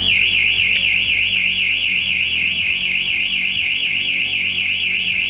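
Electronic hooter of an earthquake early-warning system sounding its alarm: a loud, high warbling siren tone that rises and falls about five times a second, then cuts off.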